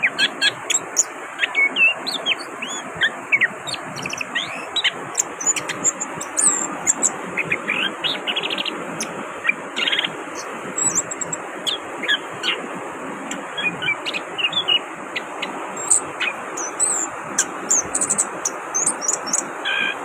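Chestnut-capped thrush singing actively, a continuous string of short chirps and quick whistled slurs, some rising and some falling, over a steady background hiss.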